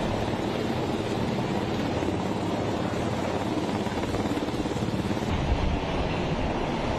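Helicopter hovering low overhead: steady rotor and engine noise mixed with rotor downwash buffeting the microphone, with a stronger low gust a little over five seconds in.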